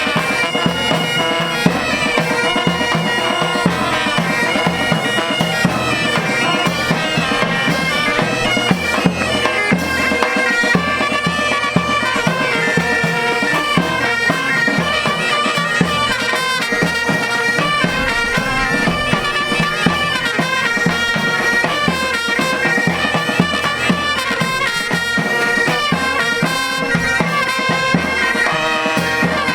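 Pipe band playing: bagpipes carry a melody over their steady drone, with a regular drum beat.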